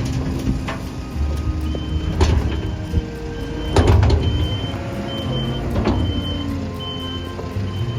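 Heavy farm machine engine running, with a few sharp metallic clanks and a short high beep repeating every half second or so, like a reversing alarm.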